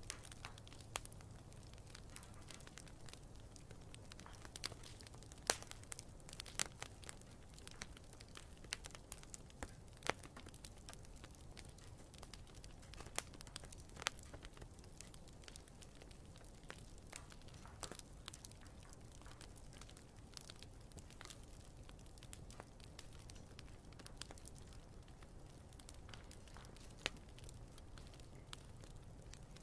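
Wood campfire burning quietly, with sharp irregular crackles and pops from the burning wood over a low steady rumble.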